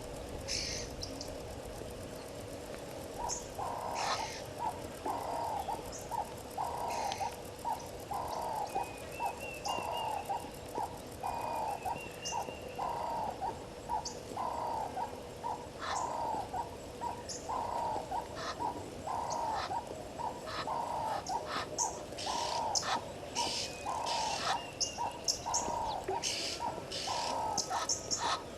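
Birds calling: a low, hollow note repeated about once a second, starting a few seconds in, over scattered short high chirps and a brief rising trill.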